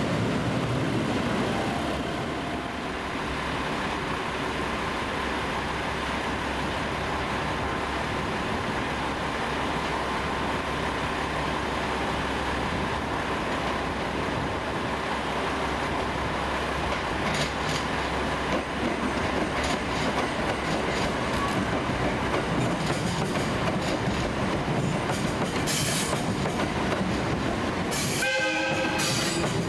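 A train moving through the station, its wheels clicking over the rail joints from about halfway. A short horn-like tone sounds near the end.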